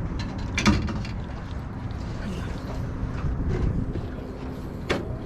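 Wind buffeting the microphone as a steady low rumble, with a sharp click shortly after the start and another near the end, and faint voices.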